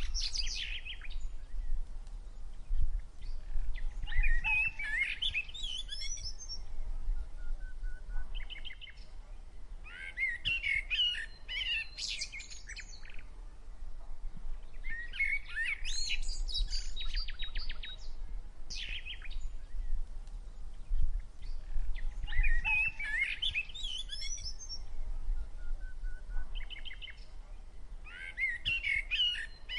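A songbird singing: bursts of quick chirps and trills in a high register, repeated about every six seconds, with a low rumble underneath.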